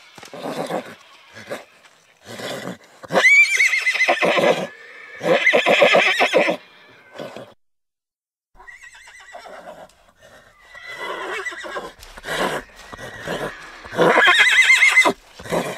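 Horses whinnying: loud neighs with a high, quavering pitch about three seconds in, about five seconds in and near the end, with shorter, quieter calls between. The sound drops out briefly about halfway through.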